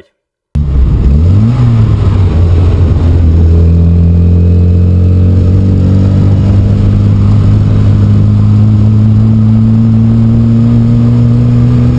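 Car engine, loud, starting abruptly about half a second in, revving up once, then pulling under acceleration with its pitch climbing slowly and steadily.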